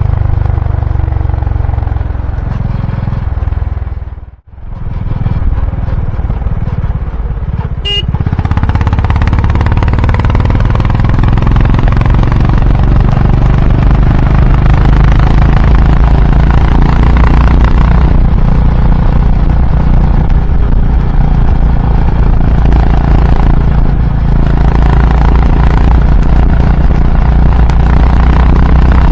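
Honda H'ness CB350's single-cylinder engine and exhaust running on the move. The sound drops out briefly about four seconds in, then comes back and runs steadier and louder from about nine seconds on.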